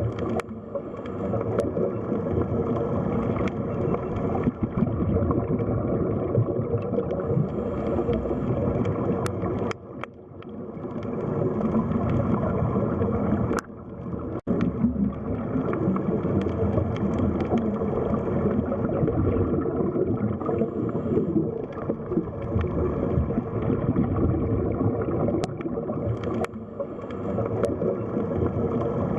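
Muffled, churning and gurgling seawater, an underwater sea ambience. It holds steady apart from two brief dips about a third of the way through.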